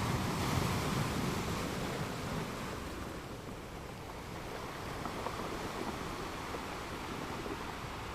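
Ocean waves washing in, a steady rushing surf that is loudest in the first couple of seconds and eases off about three seconds in.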